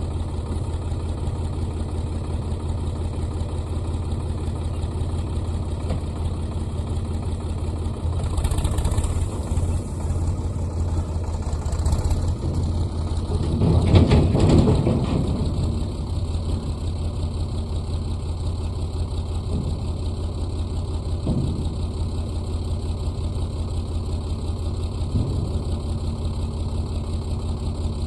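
Sonalika DI 42 RX tractor's diesel engine running steadily, growing louder for a few seconds about halfway through.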